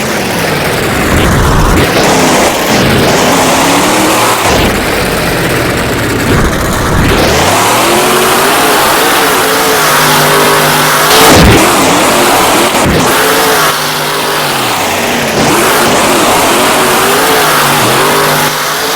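Monster truck engine revving hard again and again, its pitch climbing and dropping in quick surges, with one sharp bang about eleven seconds in.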